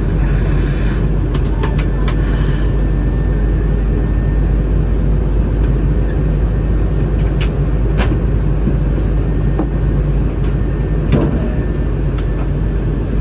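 Steady roar inside the cabin of an Airbus A319 in flight: airflow and CFM56 engine noise, with a faint steady hum. A few sharp cabin clicks sound through it.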